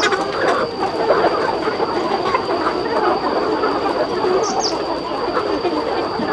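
A large flock of chickens clucking and calling all at once in a dense, continuous chatter, over a steady high-pitched whine. Two short high chirps stand out about four and a half seconds in.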